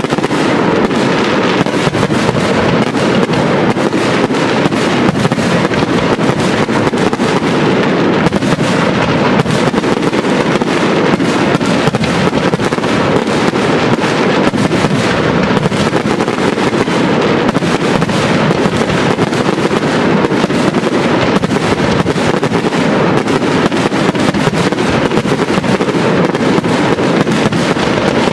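Aerial fireworks shells bursting in a dense, unbroken barrage of bangs and crackling.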